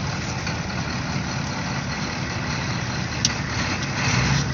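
Ford 6.9 L IDI V8 diesel engine of a 1986 F-250 idling steadily, with a single short click about three seconds in.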